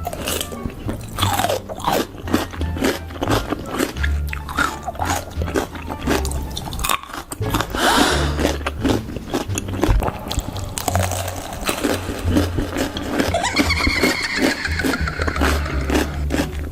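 Loud crunching bites and chewing of crisp food, a rapid run of sharp crunches, over background music with a heavy bass beat.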